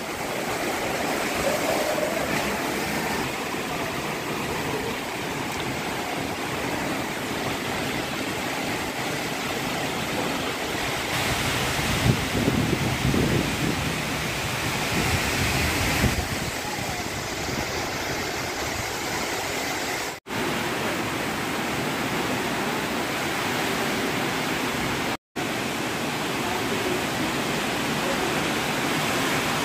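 Strong storm wind blowing, a steady rushing noise that swells louder for a few seconds in the middle. It briefly cuts to silence twice in the second half.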